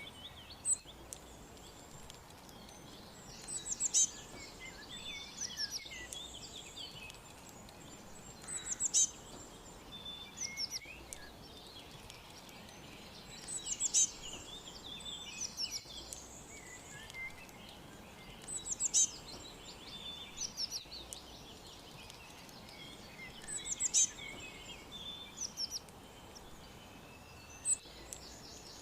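Songbirds chirping and trilling over a steady background hiss. A loud burst of high chirps comes about every five seconds, in a near-identical pattern each time.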